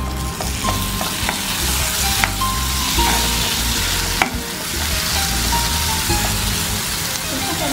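Chopped tomatoes and onions sizzling in hot oil in a nonstick pan as a wooden spatula stirs them, with a steady hiss throughout. Two sharp knocks of the spatula on the pan come about two and four seconds in.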